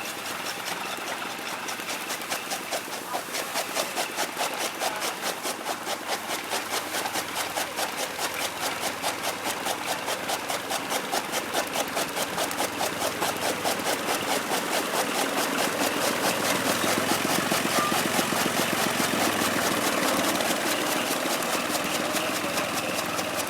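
Tractor engine running with a fast, even pulse while it drives back and forth packing chopped maize into a silage pile. It grows louder through the middle and eases off near the end.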